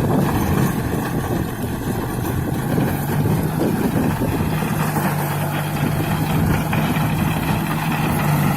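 A 40 hp John Deere tractor's diesel engine running steadily, with a low hum that grows stronger about halfway through.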